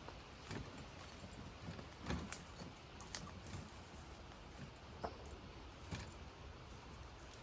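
A few light clicks and knocks, spaced a second or so apart, over a faint steady background hiss; the loudest pair comes about two seconds in.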